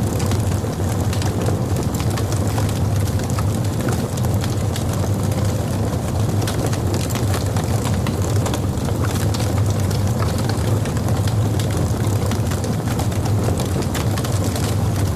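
Logs burning in a fireplace: a steady low rumble of the fire with frequent sharp crackles and pops throughout.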